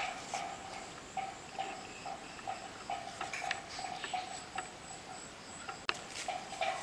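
Insects calling: a thin steady high trill under a repeated lower chirping, a few notes a second, with scattered small clicks and one sharp click about six seconds in.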